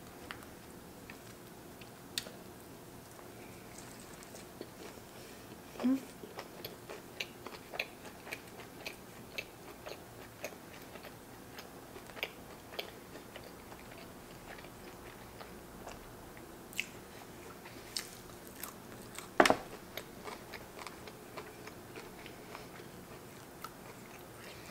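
Close-miked chewing of a bite of burger with crispy hash browns: faint wet mouth clicks and small crunches throughout. A louder sound comes about six seconds in and a sharp click near twenty seconds.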